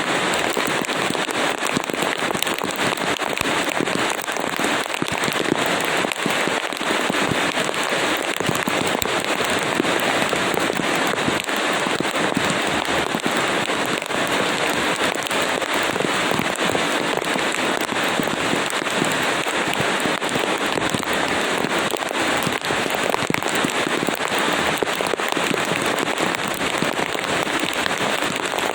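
Steady rain falling: an even hiss full of fine, crackling drop impacts.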